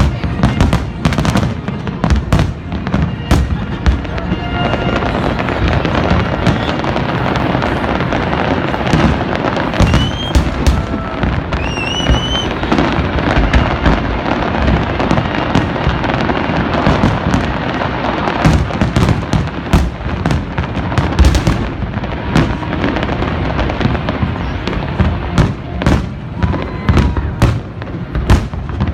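Large fireworks display: a dense run of shell bursts with continuous crackling, thickest through the middle, and a couple of rising whistles about ten and twelve seconds in.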